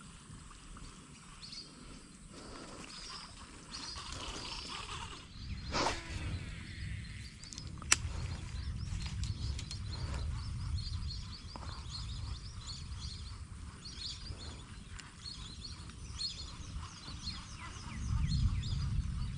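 Small birds chirping in quick, repeated high notes over a low outdoor rumble that grows louder near the end. A single swish comes about six seconds in, followed by a sharp click about two seconds later.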